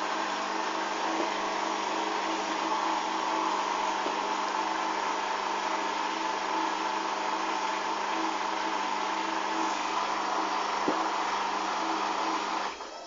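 Hoover washing machine running with a steady motor whine and hum, which cuts off abruptly near the end.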